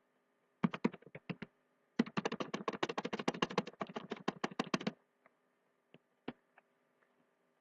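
Rapid light clicking taps: a short run about a second in, a dense quick run from about two to five seconds, then only a few scattered clicks.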